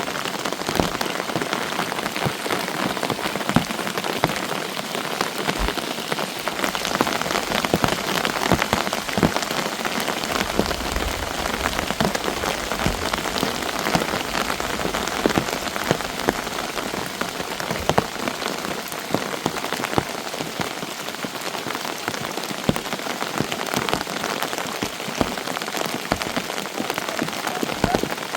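Steady rain falling, with many individual drops striking close by as sharp ticks against an even hiss. A brief low rumble sounds about ten seconds in.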